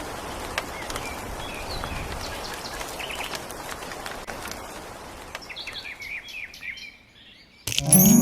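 Small birds chirping over a steady outdoor hiss; the chirps thin out and the sound drops away about seven seconds in. Near the end a loud chiming jingle starts suddenly.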